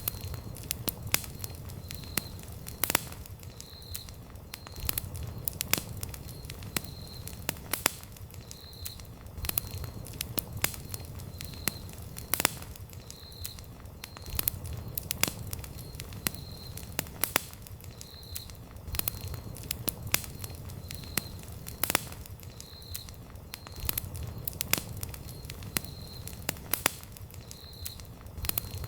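Campfire burning wood, crackling with frequent sharp pops and snaps over the low rumble of the flames. A faint high chirp repeats about once a second.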